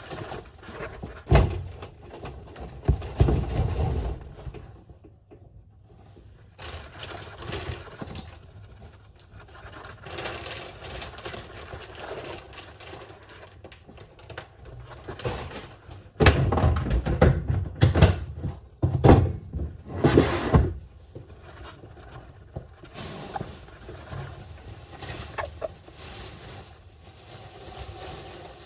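A pet hamster moving about its enclosure: faint scratching and rustling, with dull thuds and knocks about a second in, around three to four seconds in, and a cluster between about sixteen and twenty-one seconds in.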